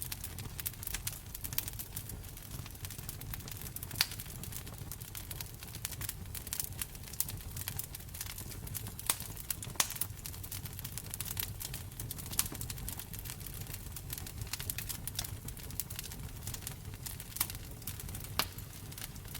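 Wood fire crackling in a fireplace: a steady low rumble of flames under frequent small pops, with a few sharper snaps.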